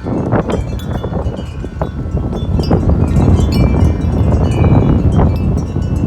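Wind chimes ringing and clanging without pause in strong gusty wind, many strikes overlapping. Heavy wind rumble on the microphone.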